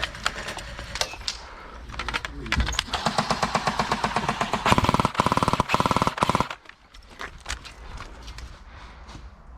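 Airsoft guns firing on full auto: a long, rapid, evenly spaced burst of shots lasting about four seconds and loudest toward its end, with scattered single clicks before and after.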